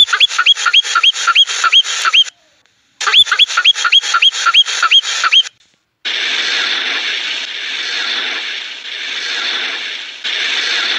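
An animal call: two runs of short, quick chirps that rise at the end, about three or four a second, with a break between them. From about six seconds in, a steady hiss.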